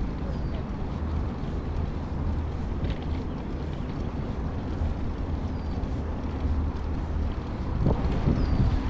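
Steady low rumble of wind buffeting the microphone while cycling, along with the noise of the ride. It gets a little louder near the end.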